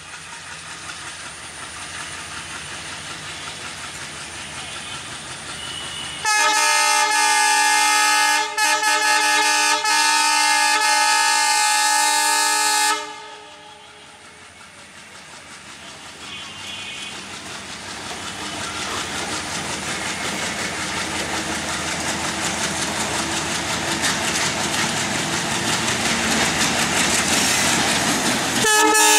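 WDM-3A diesel locomotive's multi-tone horn sounding one long blast of about six seconds, with a brief dip a couple of seconds into it. Then the noise of the train grows steadily louder as it approaches, and a second horn blast starts near the end.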